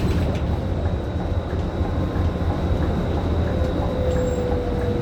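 Scania K310IB city bus heard from inside the cabin, its diesel engine running with a steady low drone over road and body noise. A thin constant high whine runs underneath, and a faint short whistle comes in about three and a half seconds in.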